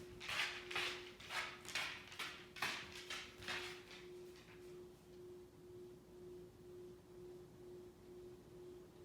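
Ceiling fan running: a faint, steady motor hum that pulses about twice a second. Over the first four seconds a run of rhythmic swishes, about two a second, keeps time with the hum and then dies away.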